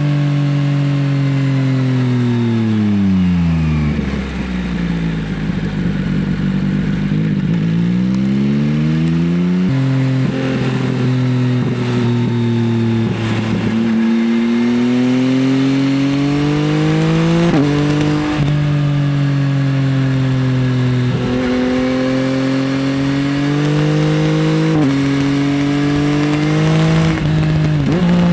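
Yamaha XSR900's inline three-cylinder engine through an Akrapovič exhaust, heard from the rider's seat. The revs fall away over the first few seconds to a low burble, then climb again in repeated rising sweeps, with a sudden drop in pitch at each upshift, several times through the second half.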